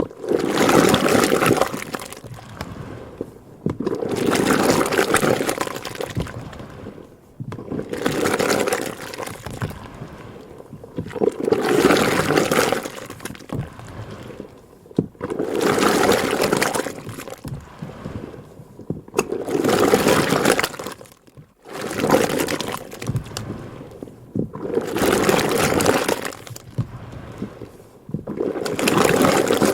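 Butter churn sloshing cream and buttermilk in regular surges, one about every four seconds, like liquid tumbling inside a turning drum.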